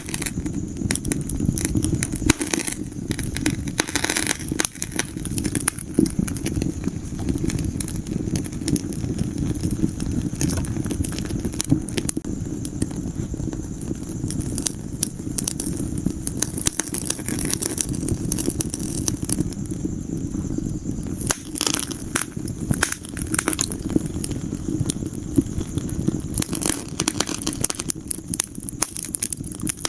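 Wood fire burning in a fireplace: a steady low rumble of flames with irregular crackles and sharp pops from the burning logs, coming in small flurries now and then.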